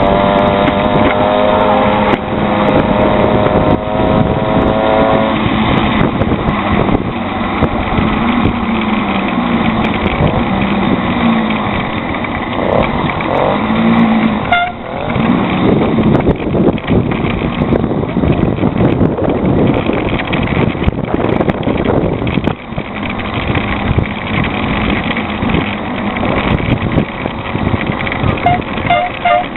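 Small engine of a motorized bicycle running during a ride, a steady engine tone for the first few seconds, then shifting in pitch under a rush of riding noise.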